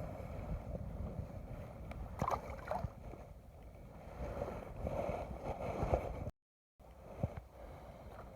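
Water lapping and splashing against a small boat's hull in wind, with a few light knocks. The sound cuts out completely for about half a second some six seconds in.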